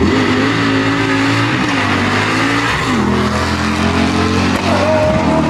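Race car engine at full throttle, its pitch climbing steadily, dropping sharply at a gear change about three seconds in, then climbing again.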